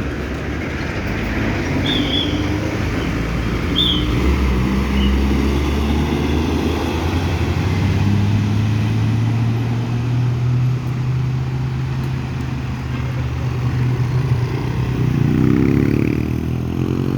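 Tanker trucks' engines running as a convoy passes: a steady low engine drone whose pitch rises a little partway through. Two brief high chirps come about two and four seconds in.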